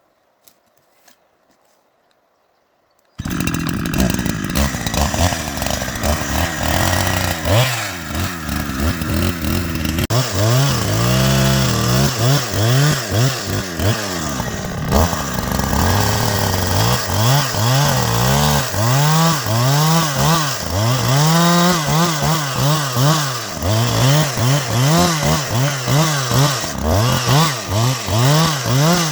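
Chainsaw starts suddenly about three seconds in and runs at high revs, then from about ten seconds in revs up and down in quick repeated surges, roughly one a second, as it cuts chinaberry trees.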